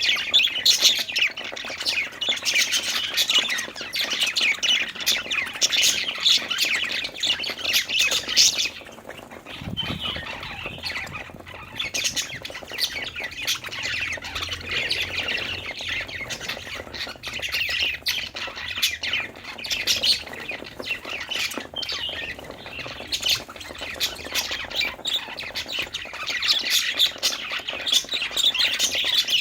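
Several budgerigars chirping and chattering in quick, overlapping calls. The chatter is busiest for the first eight seconds and again near the end, and thinner in between.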